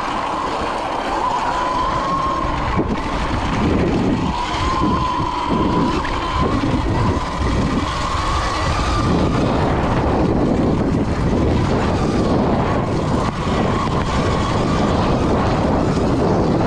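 Electric dirt bike ridden along a trail: the motor's whine rises and falls gently with speed over wind rushing on the microphone.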